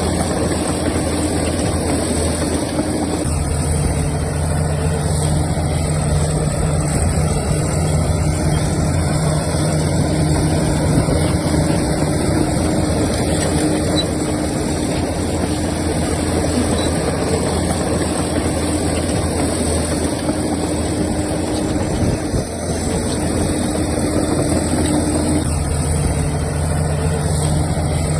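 Heavy diesel earthmoving machinery running steadily, its engine note shifting in pitch a few times as the load changes, with a brief dip a little past the middle.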